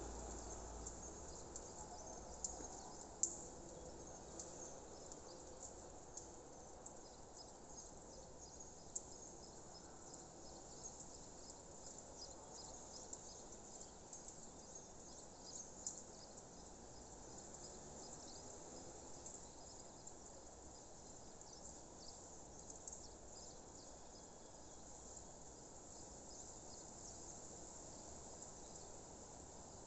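Faint chirping of insects, such as crickets, in a steady high haze, with a few sharper ticks about three seconds in and again around the middle.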